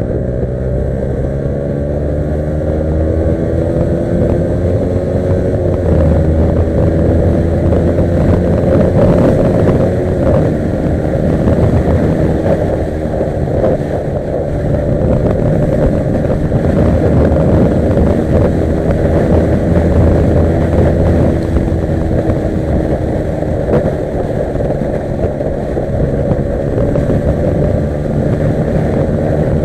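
Yamaha R15 V3's single-cylinder engine running under way, its pitch climbing over the first few seconds and changing again about six and ten seconds in as the rider works the throttle and gears.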